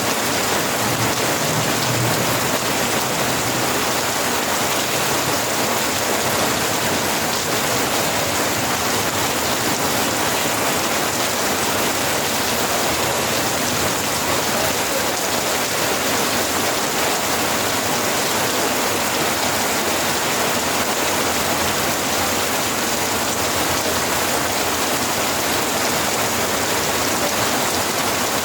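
Steady rainfall, an even hiss of rain falling on surfaces, unchanging throughout.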